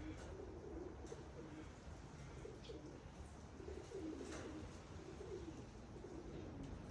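Pigeons cooing, several low warbling coos one after another.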